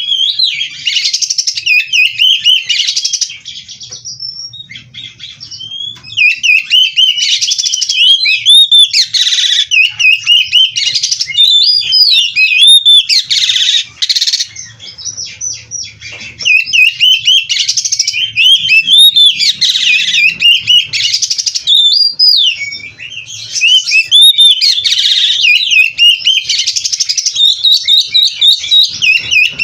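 Oriental magpie-robin (kacer) in full song: a loud, continuous stream of rapid, varied whistled and warbled phrases, packed with inserted phrases (isian). The song eases off briefly about four seconds in and again about twenty-two seconds in.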